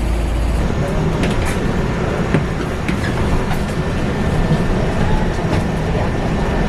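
Steady rumble of a moving city bus, with a few faint clicks and rattles.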